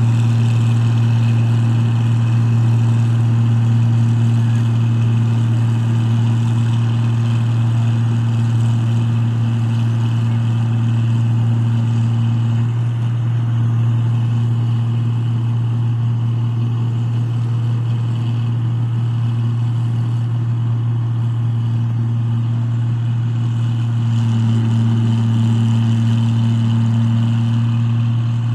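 Diesel engine of a paddy (rice) harvesting machine running steadily, a constant deep hum with mechanical noise over it. An upper tone in the hum weakens about halfway through and comes back near the end.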